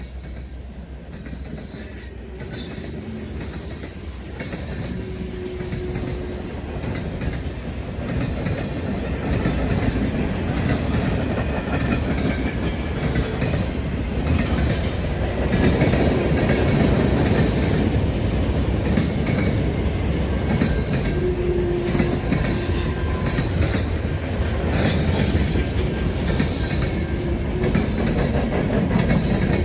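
A train passing close by on the rails: the rumble of its cars and wheels grows louder over the first ten seconds, then holds steady, with clickety-clack over the rail joints and brief wheel squeals.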